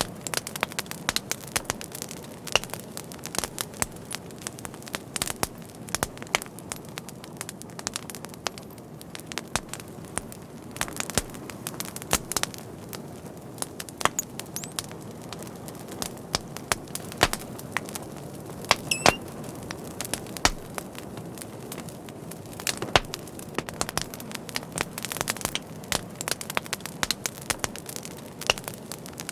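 Wood fire burning and crackling: irregular sharp pops and snaps over a steady low hiss of flames, with a brief thin whistle about two-thirds of the way through.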